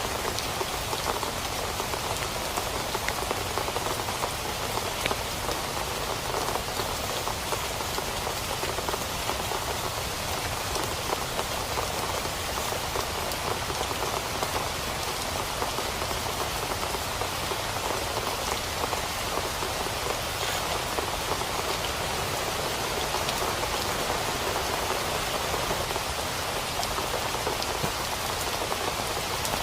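Heavy rain falling steadily on a tent, a dense, even spatter of drops that doesn't let up.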